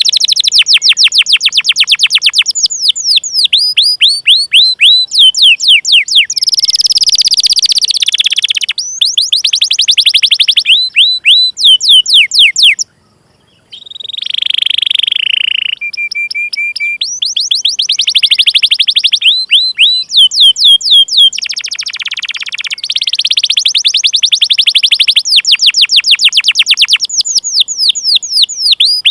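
Domestic canary singing a long song of rapid 'cuit cuit' chirps, each a quick falling note, run together into fast rolling trills. The song breaks off into a short silence about 13 seconds in, then resumes.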